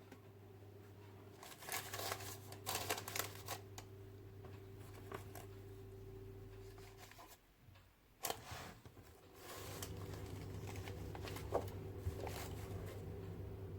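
A low steady hum from a small motor or appliance, with clicks and rustling from hands handling things. The hum stops about seven seconds in and starts again a couple of seconds later.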